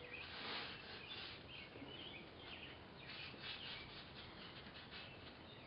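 Faint chirps from small birds in the background, short and scattered throughout, with a soft rubbing sound near the start.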